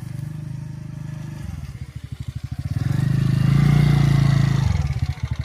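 An engine running with a rapid, even pulsing, its pitch dropping about a second and a half in and growing louder from about three seconds, then dropping again near the end.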